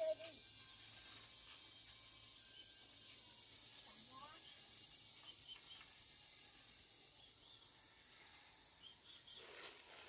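An insect trilling: a high, thin, rapidly and evenly pulsed buzz that stops abruptly about nine and a half seconds in.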